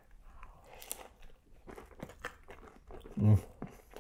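Close-up crunching and chewing of a bite of falafel waffle topped with lamb, with a short voiced hum a little over three seconds in.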